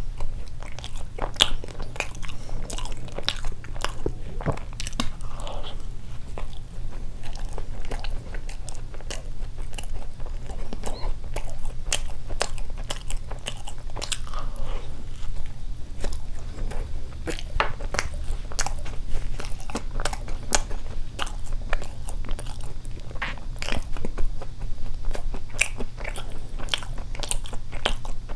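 A person biting and chewing a Krispy Kreme doughnut with a crumbly topping, with many small crunchy clicks, over a steady low hum.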